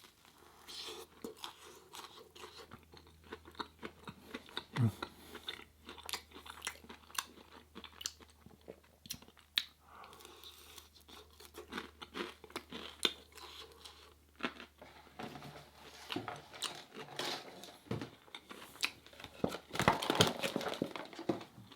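Close-miked chewing and biting of an air-fried vegan corn dog: a dense run of short crisp clicks and wet mouth sounds, busiest near the end.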